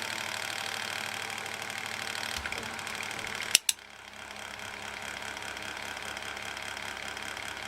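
Interior electric fan running with a rhythmic rattling clunk ("kakon-kakon"), the noise of a dry mechanism that wants grease. About three and a half seconds in come two sharp clicks, and the fan runs on a little quieter after them.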